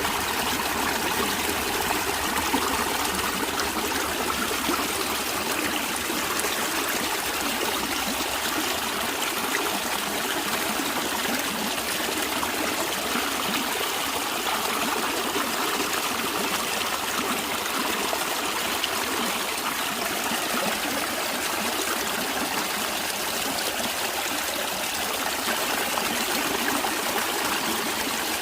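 A natural stream of water flowing steadily, an even, unbroken rush of running water with little low rumble.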